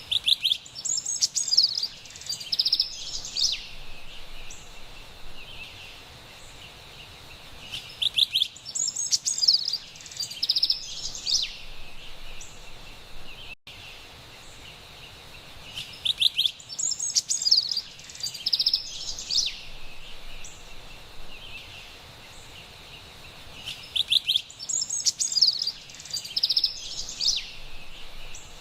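Carolina wren singing: four loud bouts of its rolling, repeated-phrase song, each about three and a half seconds long and about eight seconds apart. A faint steady background hiss runs beneath.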